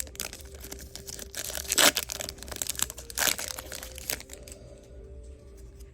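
Foil trading-card pack wrapper crinkling and tearing as it is opened, in a few sharp rustles, the loudest about two seconds in, then quieter handling after about four seconds.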